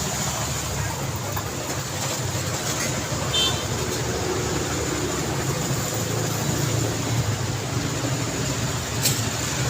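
Steady road traffic: a continuous rumble of passing engines and tyres. A brief high squeak comes about a third of the way in, and a sharp click near the end.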